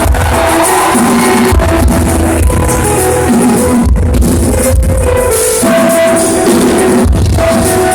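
Live band playing a song, with sustained instrument notes over a pulsing bass and drums, recorded very loud on a cheap phone so the sound is harsh and distorted.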